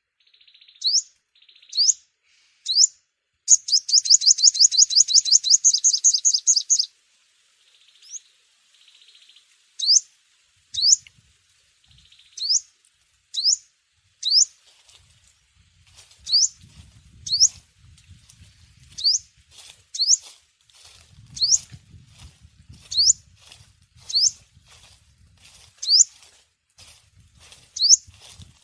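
Sunbird calling: short, sharp upward-sweeping chirps repeated about once a second, broken a few seconds in by a fast trill lasting about three seconds. A faint low rumble sits underneath in the second half.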